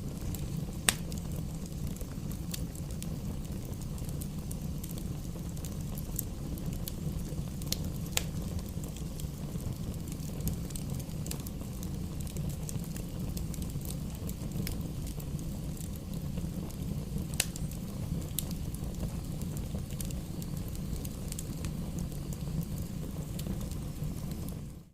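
Campfire burning: a steady low rush of flames with scattered sharp crackles and pops, the loudest about a second in, near 8 seconds and near 17 seconds. The sound cuts out for a moment at the very end.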